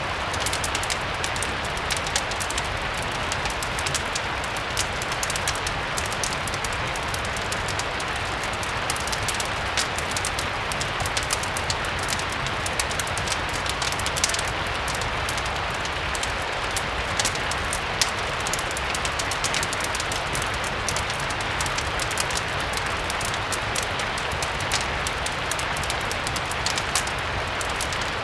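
Steady rain hiss mixed with a crackling wood fireplace, with frequent small sharp pops scattered through it.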